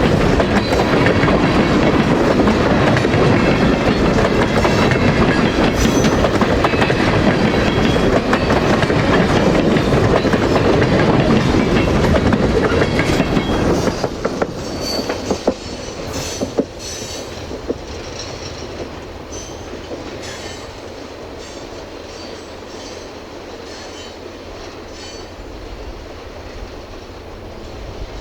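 Railroad cars of a freight train rolling past at close range, wheels clicking over the rail joints. The noise is loud for about fourteen seconds, then drops off sharply as the train passes. After that come a few sharp clicks and brief wheel squeals, and the end is a fainter steady rumble.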